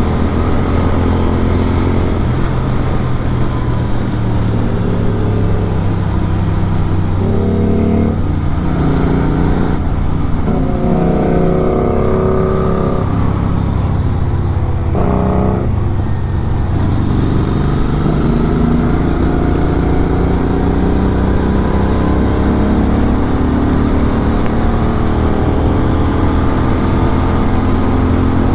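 Superbike engine and exhaust running at road speed. The pitch rises and falls with throttle and gear changes around the middle, then climbs in repeated rising runs as the bike accelerates through the gears.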